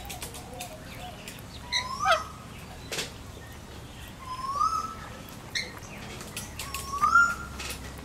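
Birds at close range: a rising whistled call comes three times, about every two and a half seconds, and is the loudest thing heard. Scattered sharp clicks come between the calls from rainbow lorikeets' beaks pecking crumbs off a glass tabletop.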